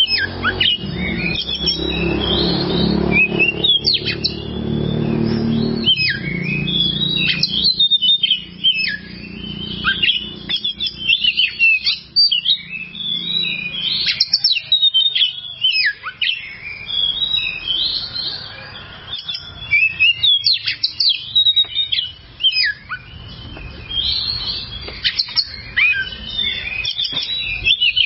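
Oriental magpie-robin (kacer) singing a rapid, varied song of chirps, trills and whistled notes, with short pauses between phrases. A low rumble runs under the first half and then fades.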